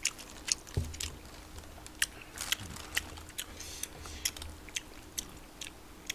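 Close-up chewing of spicy tteokbokki rice cakes, with irregular wet mouth clicks and smacks.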